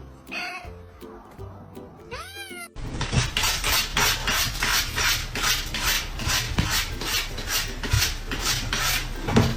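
A cat meowing twice over soft background music. About three seconds in, the sound cuts to a louder, rhythmic scratchy noise, about three strokes a second, with music.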